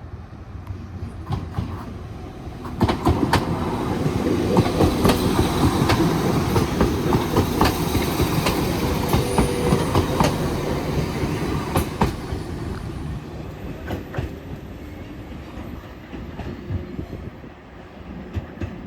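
Class 197 diesel multiple unit passing through the station, its wheels clicking over the rail joints. It builds up about three seconds in, stays loud for several seconds, then fades away.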